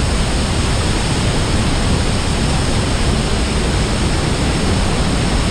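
Steady, loud roar of a waterfall at Niagara Falls, the crashing water and spray heard from close up with no break.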